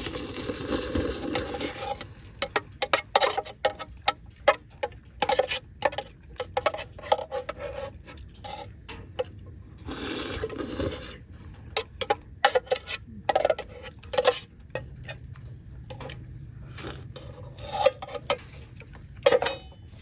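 Irregular clinks and knocks of dishes and utensils being handled, some with a short ring, with a brief rushing noise near the start and again about ten seconds in.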